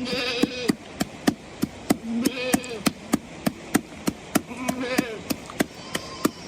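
Sharp knocks in a steady rhythm of about three a second. Three times a short pitched call or voice sounds over them.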